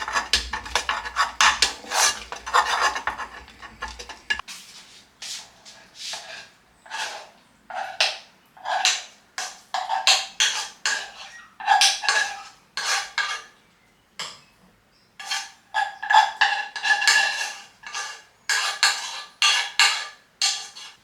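Dishes and utensils being handled, with a dense run of clattering and rubbing that stops abruptly after about four seconds. After that come a series of short scraping strokes, about half a second each, in uneven runs.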